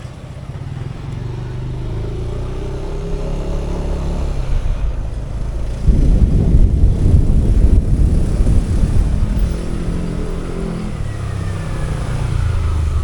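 Motorcycle engine running on the road, its pitch rising as it speeds up. About six seconds in, a louder low rush of noise comes in suddenly over the engine.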